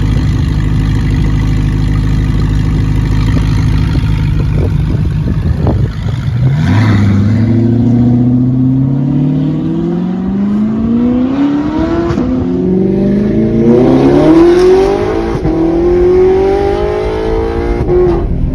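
Straight-piped Audi R8's naturally aspirated V8 running loud and steady, then accelerating hard from about six seconds in. Its note climbs, drops back at each upshift and climbs again several times.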